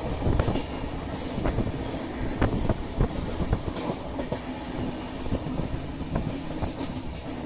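Express passenger train running at speed, heard at an open carriage window: a steady rumble of the wheels on the track, broken by many irregular clicks and knocks from the rails.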